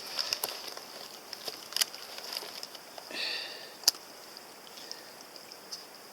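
Scattered light clicks and crunches of movement on rocky ground, over a steady high insect drone. A short buzzy call comes about three seconds in.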